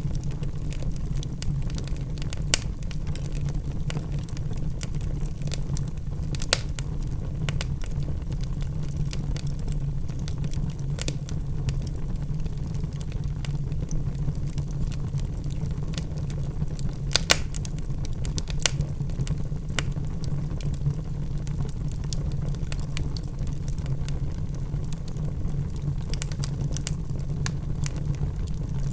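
Wood fire burning in a fireplace: a steady low rumble of the flames with scattered sharp crackles and pops from the logs, the loudest pops about six and seventeen seconds in.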